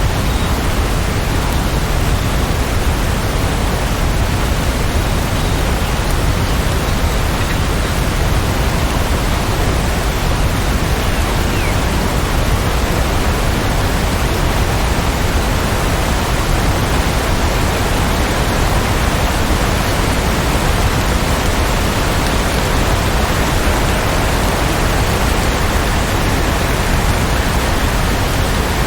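Steady rain falling, an even, unbroken wash of sound with no single drops or changes standing out.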